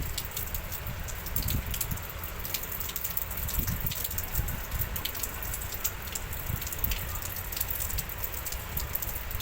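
Rain falling in a wind storm: a steady hiss with many sharp drop ticks, over an uneven low rumble of wind gusts.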